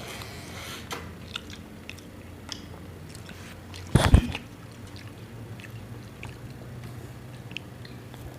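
Close-up eating sounds: biting and chewing, with small scattered clicks and one loud thump about four seconds in.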